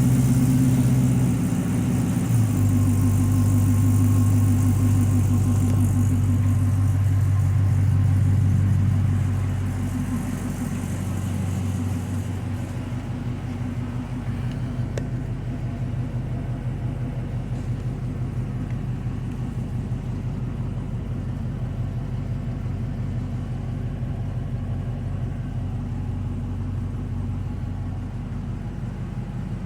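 Built LS1 V8 idling soon after a cold start. About ten seconds in it quiets and settles to a lower, steady idle.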